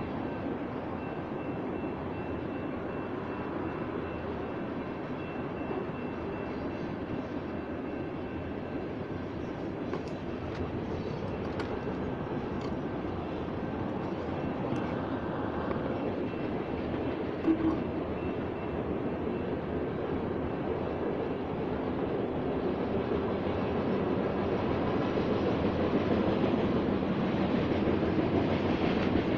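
BNSF grain train of covered hopper cars rolling past: a steady noise of wheels on rail that grows louder toward the end, with one brief knock about seventeen seconds in.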